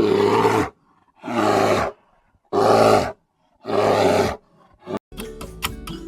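A bear roaring four times, each roar under a second long with short gaps between. Near the end, music with a ticking beat comes in.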